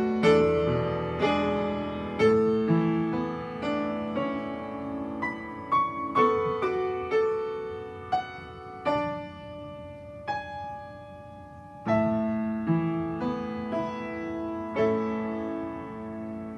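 Solo piano playing a slow, gentle melody over sustained chords, each note struck and left to decay. The notes are left ringing for a few seconds in the middle before the playing picks up again.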